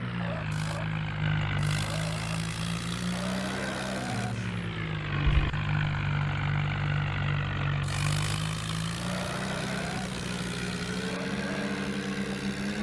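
Tractor engine running steadily, its pitch rising and falling a little with the throttle, with a short loud thump about five seconds in.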